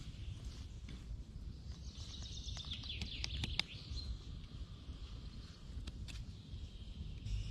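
A small bird singing a quick run of high chirps a couple of seconds in, over a low steady rumble of outdoor ambience.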